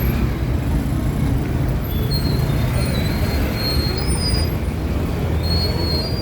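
Ferry boat's engine running with a steady low drone, with faint high whistling tones over it from about two seconds in.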